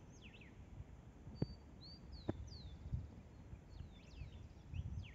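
Small birds chirping with quick, sweeping calls, over a faint low rumble. Two sharp clicks sound, about a second and a half in and again a second later.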